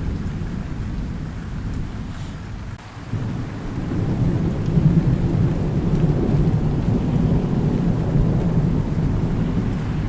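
Thunder rolling and rumbling over steady rain. The rumble eases off about three seconds in, then swells back up and keeps rolling.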